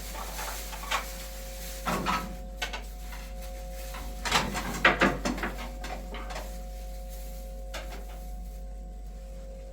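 A few scattered knocks and clatters of hard objects being handled, a cluster of them about halfway through, over a faint steady hum.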